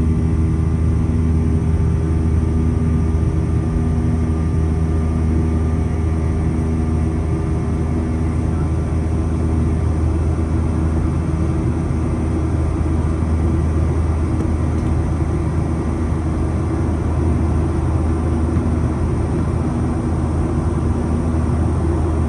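Steady cabin drone inside a Boeing 737-800 in flight: its CFM56-7B jet engines and the airflow past the fuselage make a constant low rumble with a few steady hum tones, neither rising nor falling.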